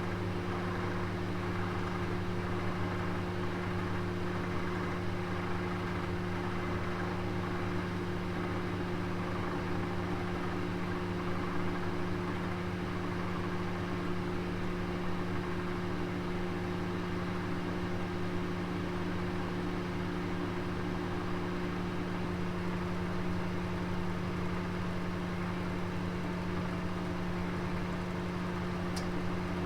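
Oven running with a steady hum of several low tones over an even hiss, a roast cooking inside. One faint short tick near the end.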